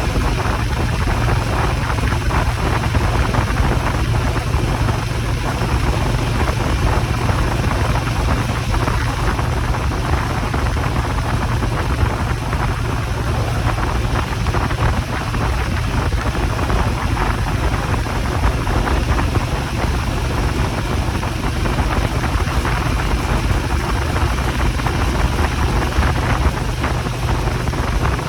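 Motorcycle engine running steadily, under wind rushing over the microphone.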